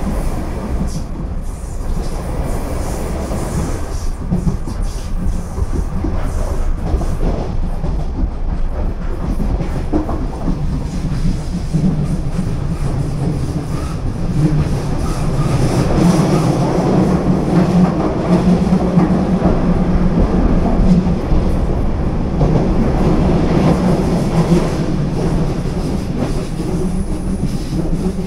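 DART electric commuter train running at speed, heard from inside the carriage: steady wheel-on-rail noise with a low hum that grows louder about halfway through.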